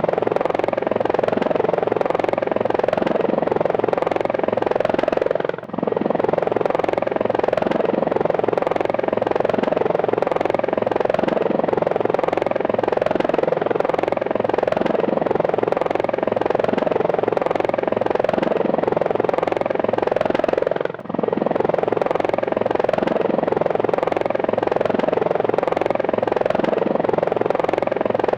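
Helicopter in flight: rotor and turbine running with a steady, fast beat of the blades. The sound drops out very briefly twice, about five and a half seconds in and again about twenty-one seconds in.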